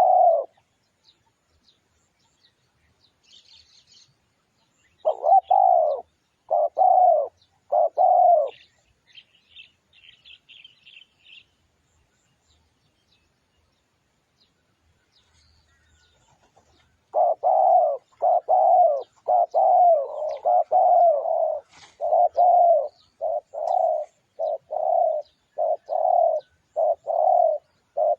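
Spotted dove cooing: a phrase of four low coos, faint high chirps from a small bird, a pause, then from about 17 seconds in a fast run of coos at almost two a second.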